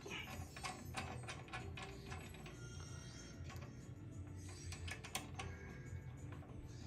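Metal drain-snake cutter heads and parts being handled, making scattered light clicks and rattles over a faint low hum.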